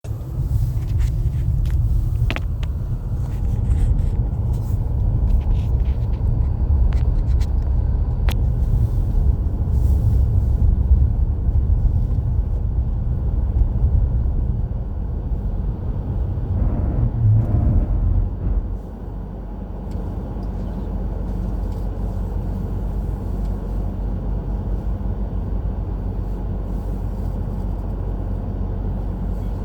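A car being driven on a snowy road: a steady low rumble of engine and tyre noise, with a few faint clicks. About two-thirds of the way through, the rumble falls to a quieter, even level.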